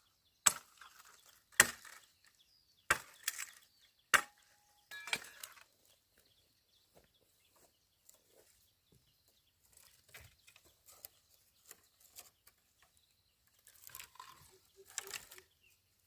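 A blade chopping into wood: five sharp strikes about a second apart, then only quieter scattered knocks and rustling after about four seconds.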